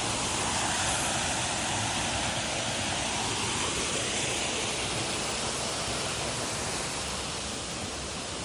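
Waterfall's steady rushing water, an even hiss with no breaks.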